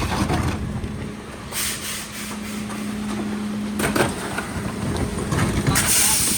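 Mercedes Econic refuse truck at work: a steady hum that stops about four seconds in, a knock as it stops, and short bursts of hiss about a second and a half in and again near the end.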